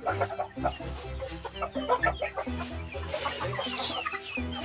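Heritage chickens clucking, over background music with steady held bass notes.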